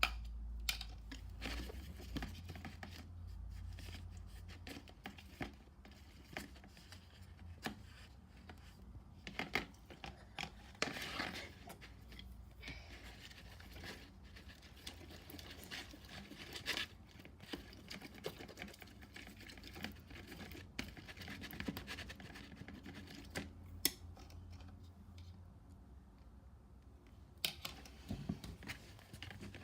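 Slime being mixed and handled: irregular scratching, crinkling and squishing noises with scattered sharp clicks.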